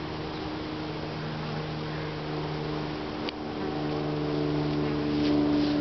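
Honeybees buzzing around an opened top bar hive: a steady, many-toned hum that grows a little louder in the second half, with a single sharp click about three seconds in.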